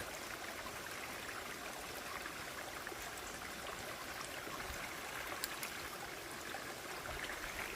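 A brook running: a steady, even rush of flowing water.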